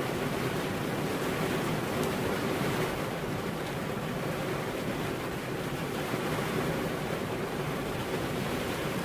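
Steady rain falling, an even hiss with no thunderclap.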